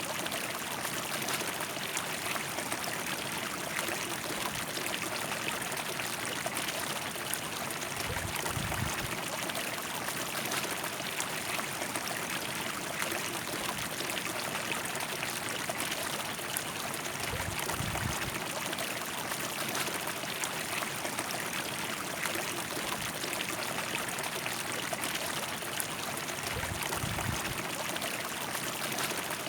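River water rushing and splashing over rocks, a steady even flow. Short low rumbles come at about 9, 18 and 27 seconds.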